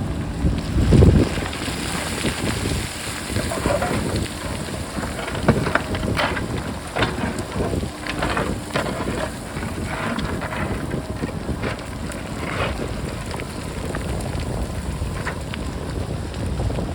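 Wind buffeting the microphone over a JCB backhoe loader working a rocky hillside: many sharp clacks of rocks clattering and rolling, with the machine's diesel engine running underneath. A loud low gust or thump about a second in.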